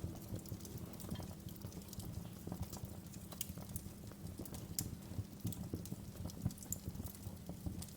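Wood fire crackling in a fireplace: irregular sharp pops and snaps over a soft low rumble.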